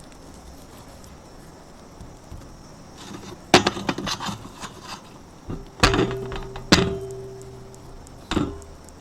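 Pieces of burnt chulha clay being handled and broken: a run of crumbly crackles and knocks, then several hard knocks, two of which leave a ringing hum that lingers for a couple of seconds.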